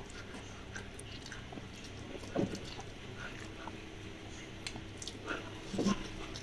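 A person eating rice and chicken by hand: soft chewing and small wet mouth clicks, with short muffled mouth sounds about two and a half and six seconds in.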